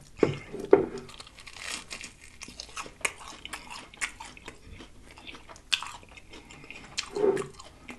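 A person biting into and chewing crispy fried food, with several louder crunches: one early in the first second and two more in the last few seconds.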